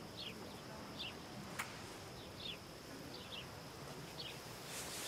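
Small birds chirping: short, falling chirps every half second or so over a faint steady high hum. A single sharp click comes about a second and a half in.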